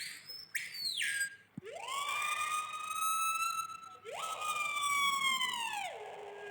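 A bird imitating an ambulance siren: a short high whistle, then two long siren-like wails. Each wail glides up sharply and holds, and the second sinks slowly to a low held note.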